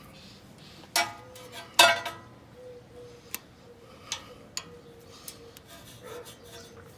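Two ringing metal clinks less than a second apart, then a few lighter metal ticks: hand tools working a cotter pin out of the castle nut on a tie rod end.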